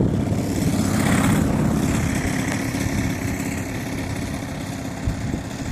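EME 35 two-stroke gas engine of an Extreme Flight MXS model plane running steadily, slowly getting quieter.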